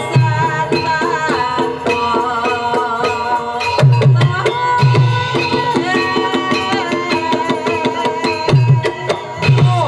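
Javanese gamelan music driven by kendang hand drumming: a quick, even drum rhythm with deep booming bass strokes every second or so, over ringing pitched gong-chime tones and a wavering melody line.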